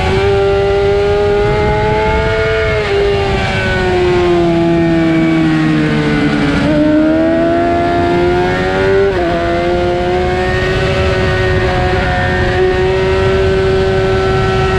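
Suzuki GSX-R750 inline-four engine running at high revs, heard over heavy wind rush. The engine note falls for a few seconds, then jumps up sharply twice, about six and nine seconds in, and holds steady after that.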